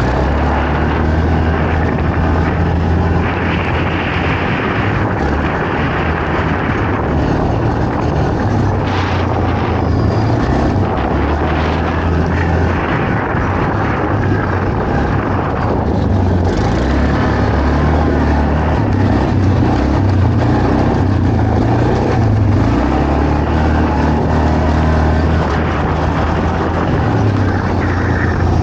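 Quad bike (ATV) engine running hard off-road, its note stepping up and down repeatedly as the throttle opens and closes, over a steady rush of wind and terrain noise.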